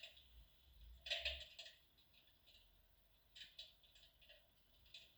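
Near silence: room tone, with a few faint clicks about a second in and again a little after three seconds.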